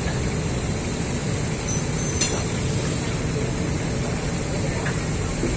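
Vietnamese passenger train coaches rolling past a level crossing: a steady low rumble of wheels on the rails, with a single sharp click about two seconds in.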